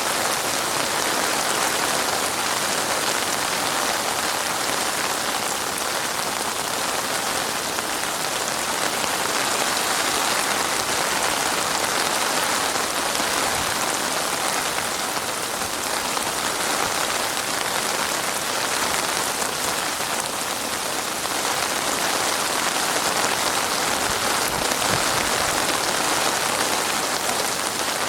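Heavy rain falling steadily: a dense, even hiss of drops on surfaces that holds at the same level throughout.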